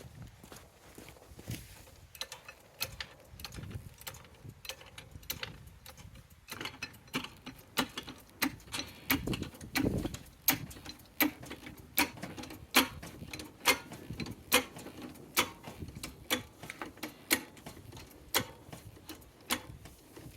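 A series of sharp mechanical clicks from a hand tool at work on the car's wheel. They are faint at first, then loud and regular from about six seconds in, slowing from about one and a half clicks a second to about one a second.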